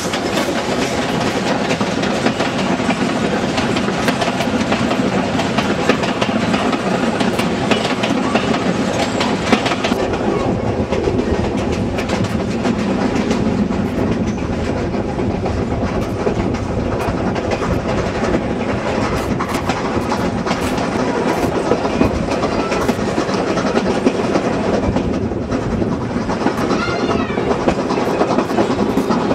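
A steam train's passenger carriages running past close by: a steady rumble of wheels on rail with irregular sharp clacks over the rail joints.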